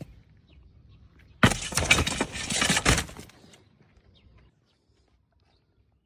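A sudden loud crash and clatter about a second and a half in, lasting under two seconds, with many sharp knocks in it, then dying away.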